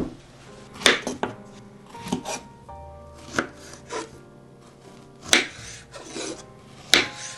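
Knife chopping food on a cutting board: single sharp cuts at an irregular pace, about one a second, over soft background music.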